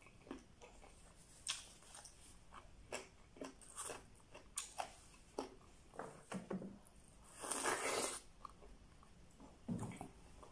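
Close-up eating sounds of chicken and rice eaten by hand: chewing, with irregular wet mouth clicks and smacks, and one longer, louder rush of noise about three quarters of the way in.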